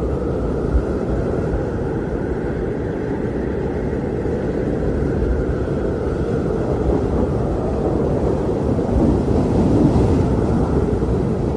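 Blizzard wind blowing in a steady low rush, swelling in a stronger gust near the end.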